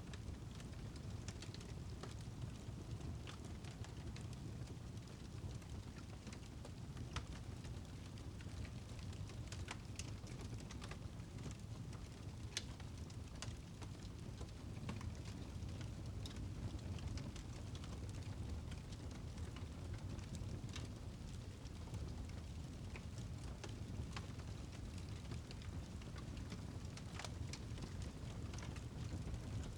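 Fireplace fire crackling: a steady low rumble with scattered sharp pops and snaps at irregular intervals.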